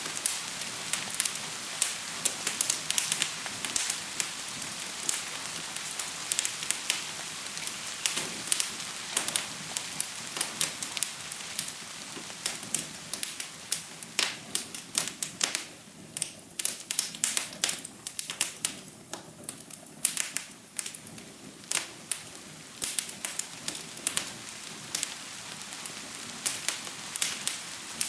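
Wood fire crackling, with many sharp pops, over the steady hiss of gentle rain. The hiss thins for a few seconds past the middle, leaving the crackles more exposed.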